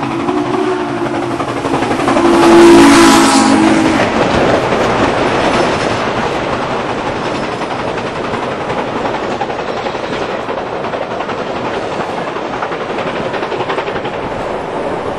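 A train sounds its horn, a chord of several held tones that is loudest about three seconds in and stops about four seconds in; the train then rolls on with a steady noise of wheels on the rails.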